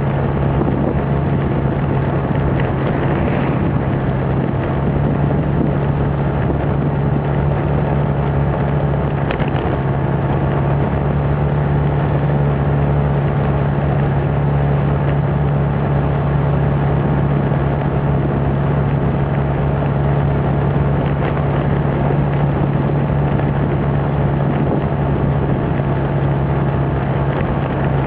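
Motorbike engine running at a steady, even pitch while riding, with a constant rushing noise of the ride around it.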